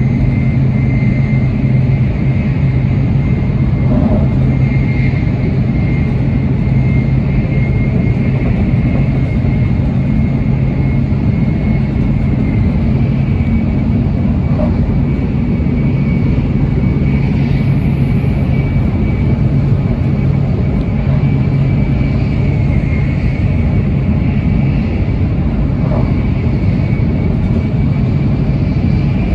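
Steady running noise inside the cabin of an N700S Shinkansen train at speed: a low rumble with a constant high whine over it, and a few faint ticks.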